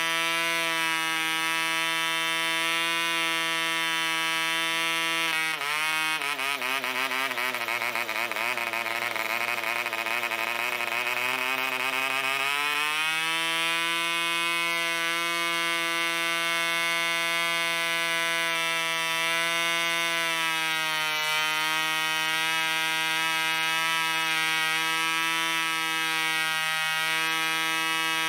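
An Allen-Mercury AM25 2.5cc single-cylinder model aero diesel engine running flat out on a test stand, turning a 9x4 propeller with a high, steady buzz. About five seconds in, its speed sags and wavers unsteadily; about thirteen seconds in, it picks back up to a steady high pitch.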